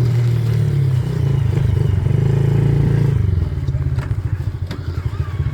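Small Yamaha dirt bike engine running under throttle, then easing off about three seconds in to a lower, pulsing note.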